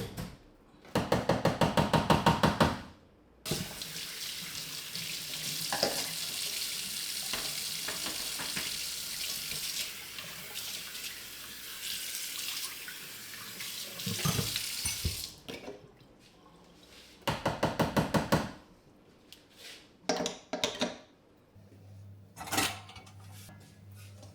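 Kitchen tap running steadily into a sink for about twelve seconds. Before and after it come two short, loud runs of quick, evenly spaced strokes, and near the end a few light knocks and clatters of dishes.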